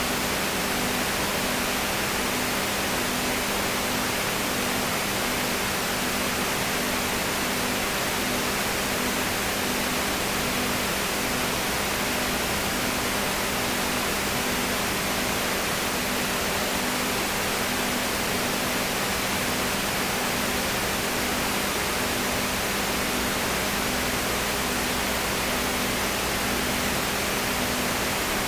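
Steady hiss with a low hum underneath, one tone of which pulses about once a second.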